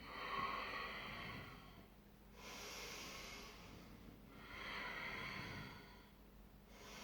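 A woman breathing audibly during a stability-ball wall squat: three slow, airy breaths of about two seconds each, paced with the effort of lowering and rising.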